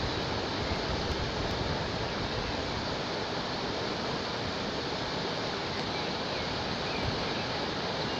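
Mountain river rushing steadily, an even hiss of fast-flowing water.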